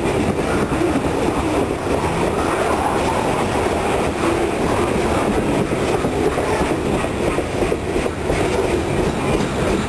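Loaded coal train's freight cars rolling past: a steady, loud rumble and clatter of steel wheels on rail, with a faint wavering wheel squeal.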